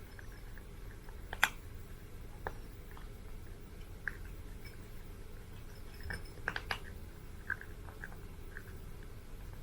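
A cat eating, with scattered chewing clicks and crunches at an irregular pace and one sharper click about a second and a half in.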